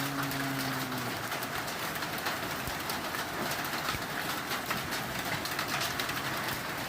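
Heavy rain falling with hail: a steady hiss of rain studded with dense sharp clicks of drops and hailstones striking surfaces. A brief low tone sounds for about the first second.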